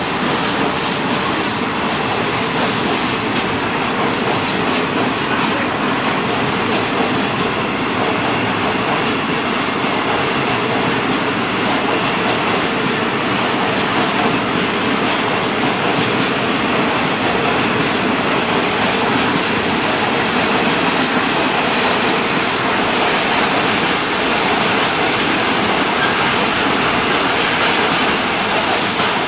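Freight train of tank wagons and container flatcars passing close by at speed: a steady, loud rush of steel wheels running on the rails.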